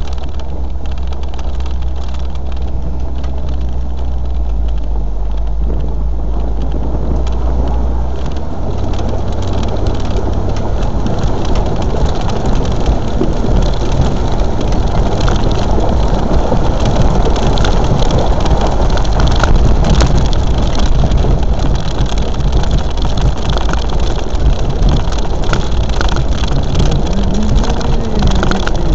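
Land Rover engine running as the four-wheel drive drives on, its note stepping up about eight seconds in, then growing louder, with knocks and rattles.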